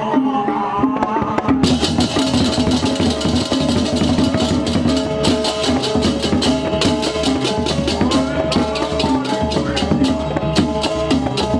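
Balinese gamelan processional music of the kind played for an ogoh-ogoh parade: held ringing metallic tones under drums and fast, dense cymbal clashing, which thins briefly at the start and then comes thick again.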